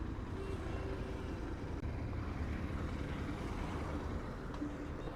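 Steady roadside traffic noise with motor vehicle engines running.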